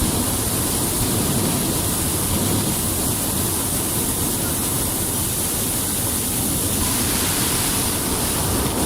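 Loud, steady rushing noise that starts abruptly at the end of a countdown and holds even throughout.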